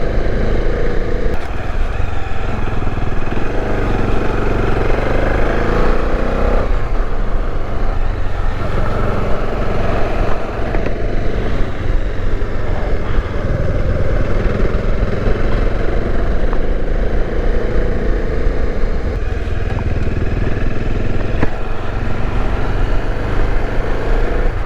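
Bajaj Dominar 400 motorcycle's single-cylinder engine running while being ridden, its note rising and falling with the throttle.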